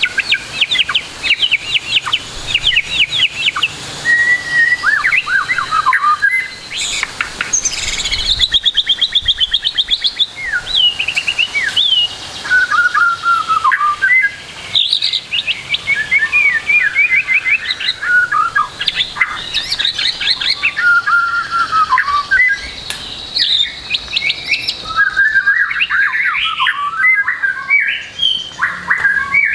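White-rumped shama singing a continuous, varied song packed with imitated phrases: rapid trills, chirps and sweeping whistles following one another without a pause.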